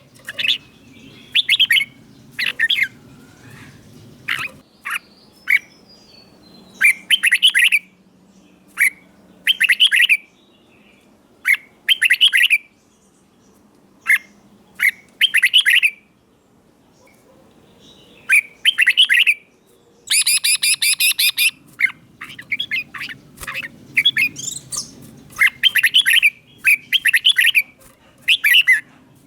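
Red-whiskered bulbul singing: short, clear warbled phrases repeated every second or two with brief pauses, and a dense run of notes about two-thirds of the way through.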